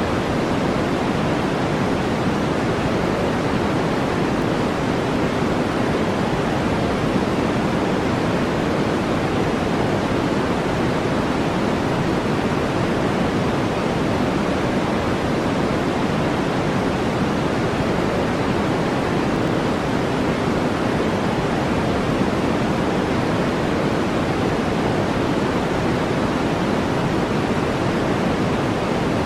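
Steady generated noise: a constant, even hiss weighted toward the lower tones, in the manner of brown noise, with no changes or distinct events.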